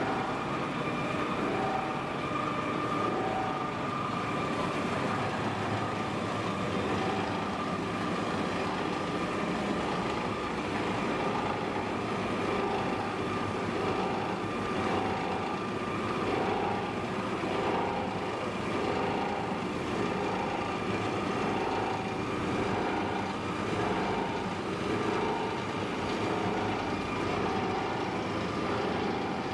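Waste plastic washing line machinery running: a steady mechanical drone with a higher tone that pulses about once a second.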